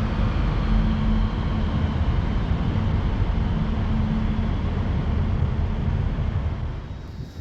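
A train running past close by: a steady rumble with a hum that comes and goes, falling away near the end.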